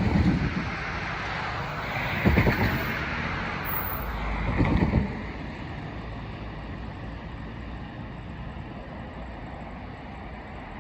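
Norfolk Southern freight train rolling by on the rails. Three loud bursts of wheel noise come in the first five seconds, about two and a half seconds apart, then it settles into a steadier, quieter rumble.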